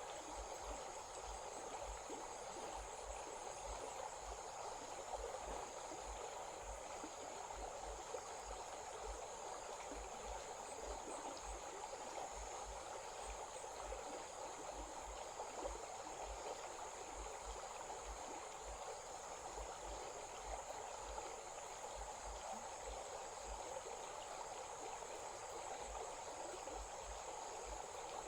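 A stream flowing steadily, with insects keeping up a steady high-pitched drone over the water.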